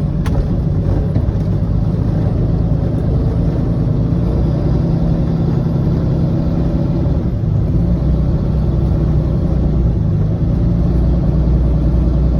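Coach bus engine and running noise heard from the driver's seat, a steady low drone that shifts slightly partway through as the bus moves at low speed.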